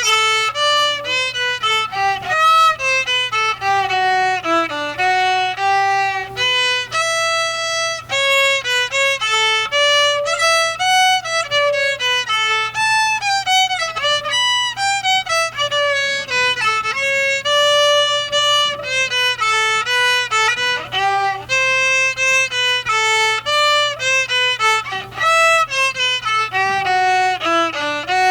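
Solo violin playing a melody, one line of bowed notes moving in steps and quick runs up and down.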